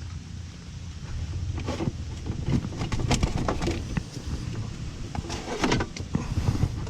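Irregular clicks, knocks and clatter of hand work on the generator and its parts, in clusters about 2, 3 and 5.5 seconds in, over steady wind rumble on the microphone.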